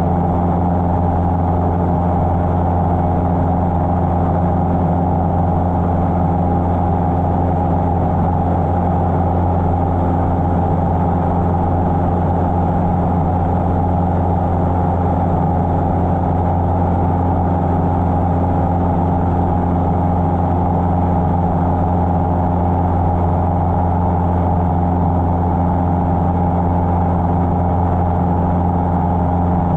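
Cessna 150's four-cylinder Continental O-200 engine and propeller droning steadily in flight, with a constant pitch and level.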